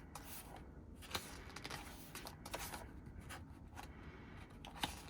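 Pages of an album photobook being turned and handled: scattered soft paper rustles and light taps, the loudest about a second in and near the end.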